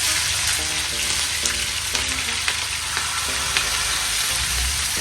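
Chopped vegetables sizzling as they sauté in hot oil, with now and then a click of a utensil against the pan as they are stirred. Faint music plays underneath.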